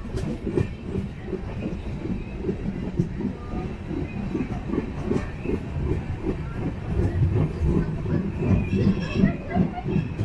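A passenger coach of an express train running along the track, with a continuous low rumble and irregular wheel clatter and knocks.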